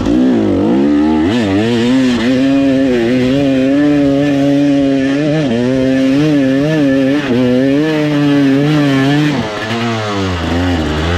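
Dirt bike engine revving hard: the pitch climbs sharply in the first second, then stays high and keeps rising and falling with the throttle as the bike is ridden. Near the end it drops back to a lower, steadier note.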